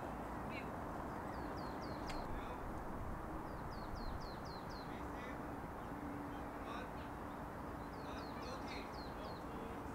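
A bird calling: runs of four or five short, falling chirps, repeated several times, over a steady background hiss.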